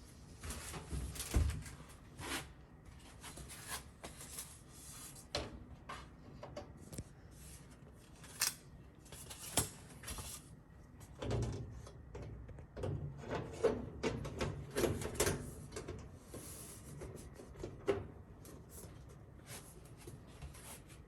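Dryer's sheet-metal panels and parts being handled and fitted back together: scattered knocks, scrapes and clunks, some sharper than others, with no steady running sound.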